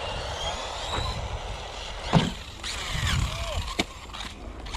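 Small brushless RC car motor whining as it speeds up and slows down, with a sharp knock about two seconds in and a few lighter clicks near the end.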